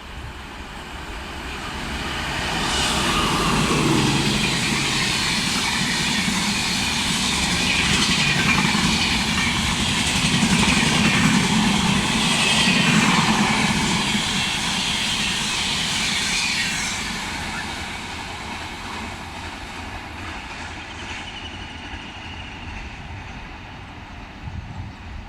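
A train passing at speed: the noise of its wheels on the rails builds over the first few seconds, stays loud for about fourteen seconds, then fades away as it recedes.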